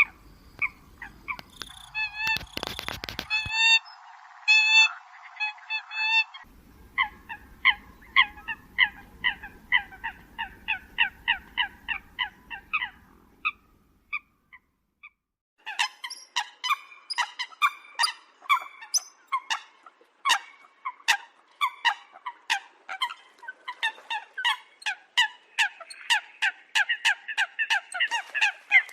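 Eurasian coots calling: rapid series of short, sharp honking calls, several a second, from more than one bird. It is a bird-lure recording. The calling breaks off briefly about halfway through, then resumes denser.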